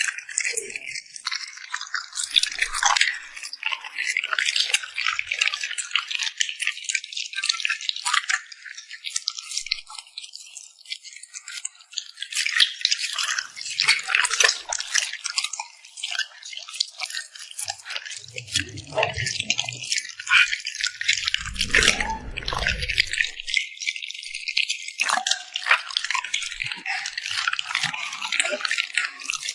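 A puppy eating close up: continuous wet lip-smacking, licking and chewing clicks. One or two low bumps come just past the middle.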